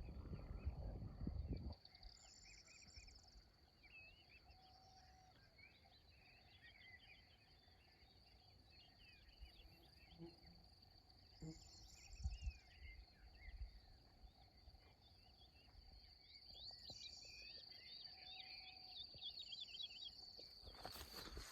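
Faint outdoor nature ambience: a steady high-pitched insect trill with scattered short bird chirps. A louder low rumble fills the first second and a half.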